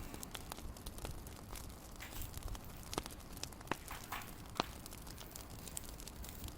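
Wood fire crackling in a fireplace: scattered sharp pops and snaps over a low, steady burning rumble, the loudest pop about four and a half seconds in.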